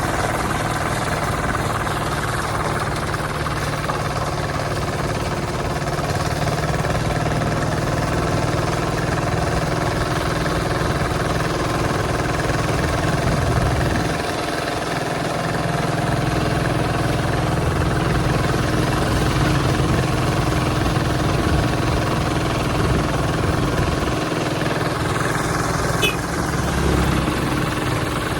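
Hand tractor's engine running steadily, its low rumble dipping briefly a couple of times.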